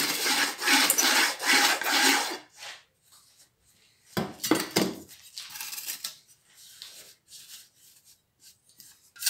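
Scraping and rubbing strokes across the refractory top of a homemade furnace, levelling it so the lid sits flush. A dense run of strokes comes first, then a few shorter separate strokes later.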